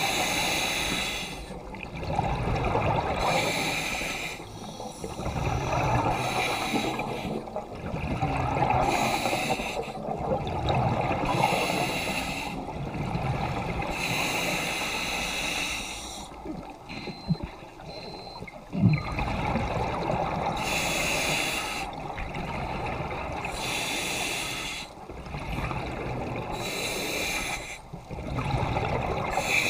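Scuba diver breathing through a regulator underwater: hissing inhalations and bubbling exhalations in a repeating cycle every few seconds, with a quieter spell and a sharp knock about two-thirds of the way through.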